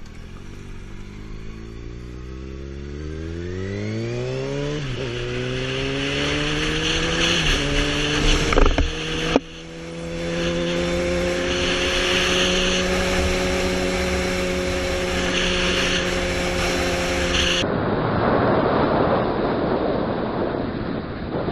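Motorcycle engine accelerating hard through the gears: the pitch climbs and drops back at three gear changes in the first half, then holds a steady high note. Near the end it cuts to a loud rushing wind and road noise.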